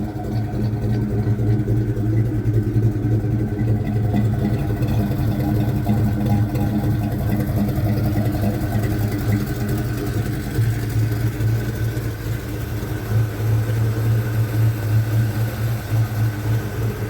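Chevy C10 pickup's 350 V8 idling steadily, with an even, deep exhaust note, which the owner reckons sounds pretty good.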